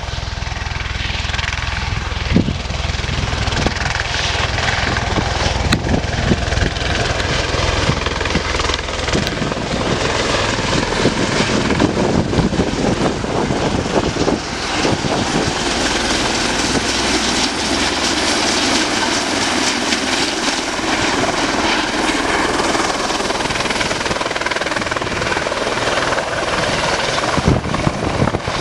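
UH-60 Black Hawk helicopter with its twin turboshaft engines and rotor running, a loud steady turbine and rotor noise.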